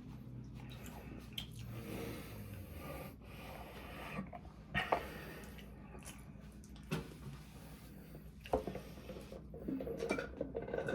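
Close-miked eating sounds: chewing and breathing through the nose, with a few sharp clicks or knocks about five, seven and eight and a half seconds in.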